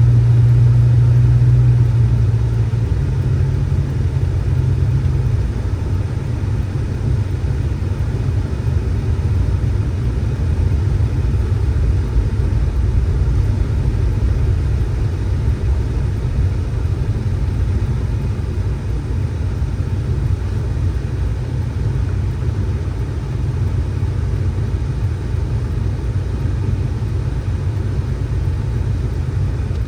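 Steady low rumble of a motor vehicle running, with a humming engine note that steps up slightly in pitch about three seconds in and fades into the rumble a couple of seconds later.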